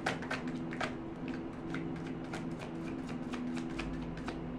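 Tarot cards being shuffled by hand: a run of short, crisp card clicks, coming quickly at first and then more sparsely, over a faint steady low hum.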